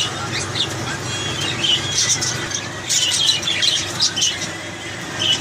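Small pet parrots chattering, with many short, sharp squawks and chirps scattered irregularly throughout.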